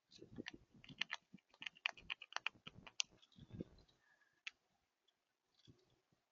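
Rapid, irregular clicks and taps of animals feeding at a bird feeder, with a few dull knocks, thick for about four seconds and then only scattered.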